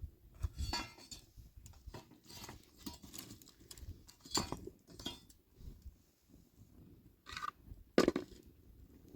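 Irregular light clinks and knocks of dishes and utensils being handled, with the loudest knock near the end.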